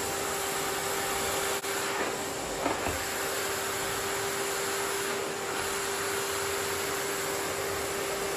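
Miele vacuum cleaner running steadily: a rush of air over a constant motor tone, with a couple of brief knocks nearly three seconds in.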